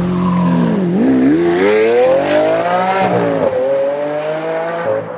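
Lamborghini Aventador's 6.5-litre V12 under hard acceleration: the engine note dips about a second in, climbs for about two seconds, then drops sharply with an upshift and holds steadier.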